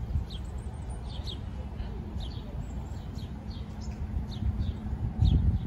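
A small bird chirping over and over: short high notes, often in pairs, about once a second. Under it runs a steady low rumble that swells briefly near the end.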